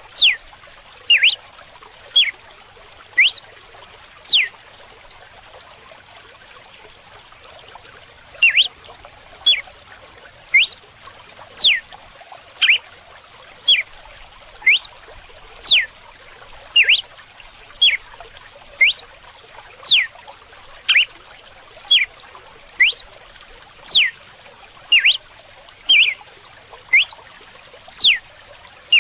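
Red-cowled cardinal singing its 'açoite' whip song: short sharp whistled notes, each a quick upward or downward slur, about one a second, with a pause of some four seconds after the first few notes. A faint steady trickle of running water lies underneath.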